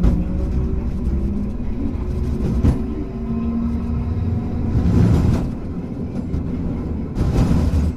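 Hankai Tramway streetcar No. 351 running along the line: a steady low motor hum, with heavy wheel clacks over rail joints about every two to two and a half seconds.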